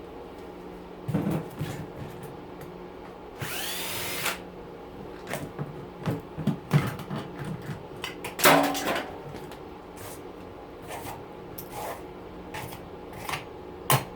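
A handheld power tool runs in one short burst of about a second, a few seconds in, amid knocks and clatters of metal parts being handled, the loudest just past halfway. A steady low hum runs underneath.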